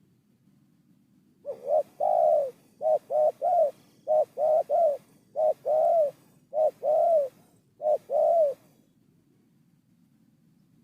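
Spotted dove cooing: six phrases of two or three coos, each phrase ending on a longer, drawn-out coo, repeated over about seven seconds.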